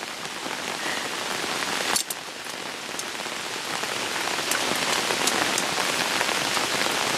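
Heavy rain falling steadily, with scattered sharp drop ticks, growing a little louder over the first few seconds.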